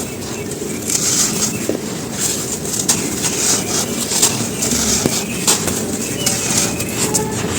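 Dry moulded charcoal-ash blocks being crushed and crumbled, with a rapid run of crisp crunches and crackles, over a steady low rumble.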